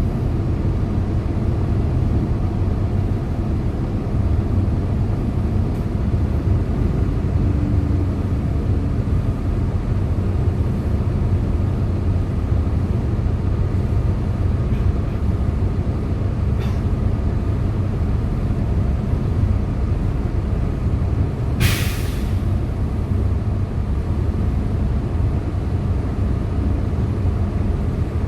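A 2011 Hyundai Green City CNG city bus under way, heard on board: its engine gives a steady low drone. About three-quarters of the way through comes one short, sharp hiss of released compressed air from the bus's air system.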